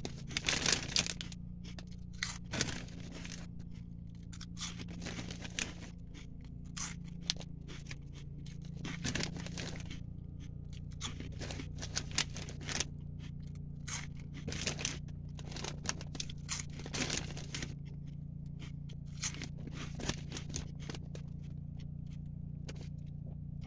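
Close-up crunching of Chester's Flamin' Hot Fries being chewed: short, irregular crisp crunches throughout, with the snack bag handled now and then. A steady low hum runs underneath.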